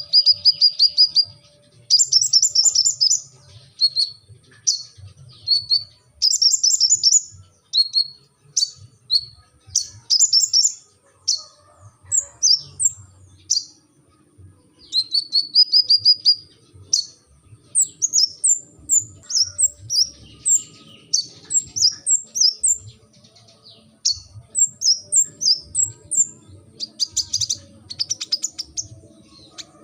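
A sunbird of the kind Indonesian keepers call 'kolibri ninja' singing continuously: loud, high-pitched phrases of fast trills and short sharp chirps, repeated with brief pauses between them.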